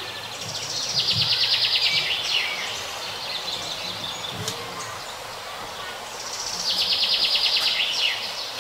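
A songbird singing the same short phrase twice, a fast high trill that ends in a quick falling flourish, with scattered high chirps between.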